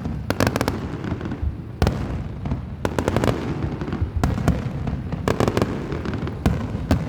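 Fireworks going off: a string of sharp bangs and crackles, some coming in quick clusters of several cracks, over a continuous low rumble.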